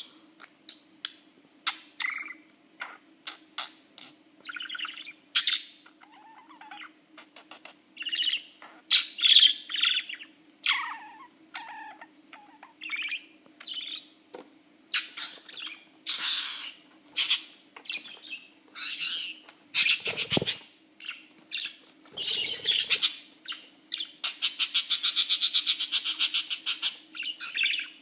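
Pet budgerigar chattering, with short chirps, squawks and sharp clicks. Near the end comes a fast pulsing buzz lasting about three seconds. A faint steady hum runs underneath.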